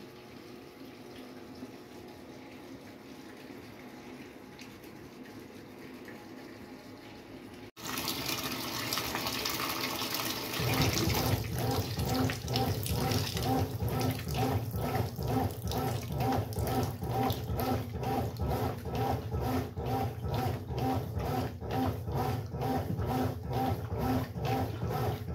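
Brastemp Sexto Sentido washing machine at work: water runs in softly, then about eight seconds in a much louder rush of water starts. A couple of seconds later the motor begins a regular mechanical pulsing churn over the water.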